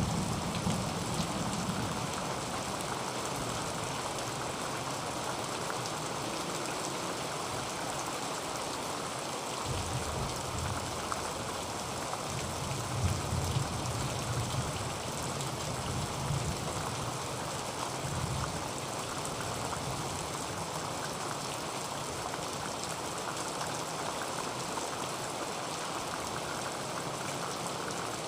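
Heavy rain falling on a tin roof as a steady, even hiss, with a few low rumbles swelling and fading around the middle.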